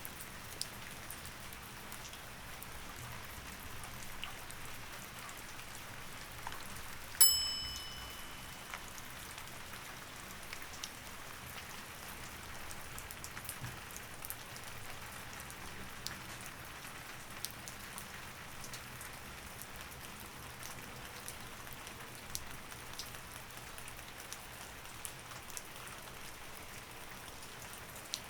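Steady rain with scattered drop ticks. About seven seconds in, a single bright chime rings and fades over about a second: the Pomodoro timer marking the end of a 25-minute work session and the start of the break.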